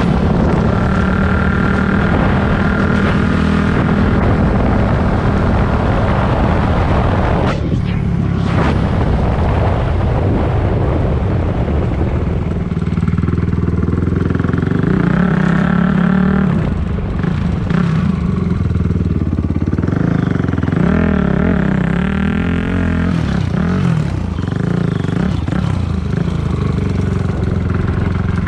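Dirt bike engine running under load as the bike is ridden, its revs rising and falling repeatedly.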